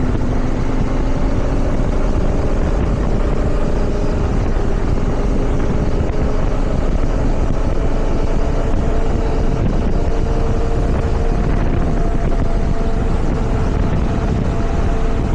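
Motorcycle engine running at a steady cruising speed, with heavy wind rush over the microphone.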